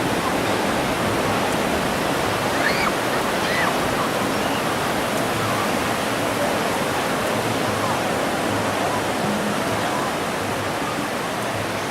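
Ocean surf washing steadily onto a beach, a continuous rushing wash.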